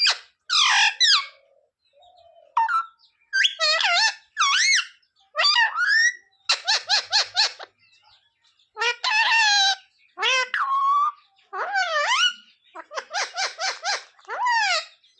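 Pet parrot calling: a series of loud, high whistling and screechy calls that sweep up and down in pitch, with short pauses between them and a couple of fast trains of repeated notes.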